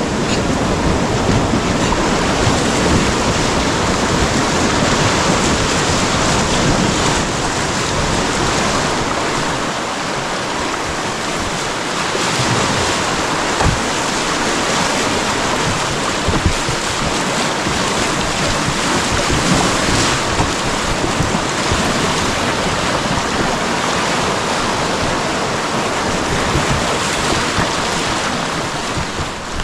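River rapids: loud, steady rushing whitewater.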